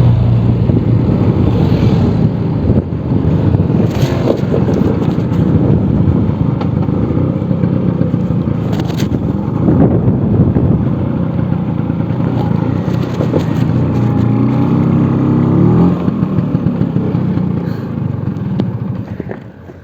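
Vespa scooter engine running while riding, with road and wind noise. About three quarters of the way through the engine revs up, then it eases off near the end.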